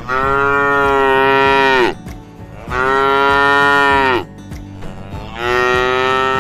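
A cow mooing: three long moos, each held at a steady pitch and falling away at its end.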